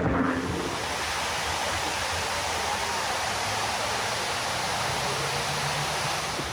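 Steady rushing of water cascading down the walls of the 9/11 Memorial's waterfall pool.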